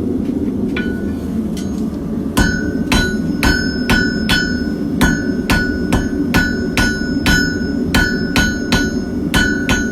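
Hand hammer striking hot steel on an anvil, forging a hook-tool blank. The blows start a couple of seconds in and come at about two a second, each with a short bright ring from the anvil. A steady low rumble runs underneath.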